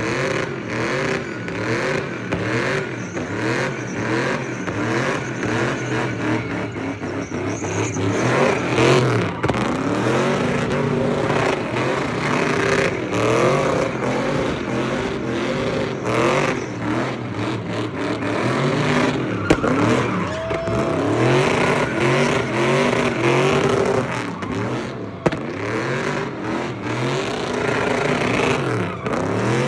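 A car engine revving hard over and over, its pitch climbing and dropping back roughly once a second.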